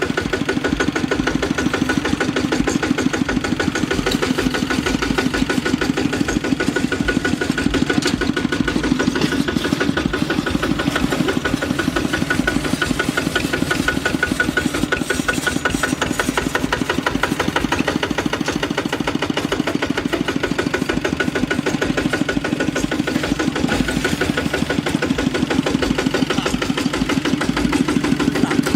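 Single-cylinder diesel engine of a Kubota RT walking tractor running steadily, a rapid even chugging with no change in speed.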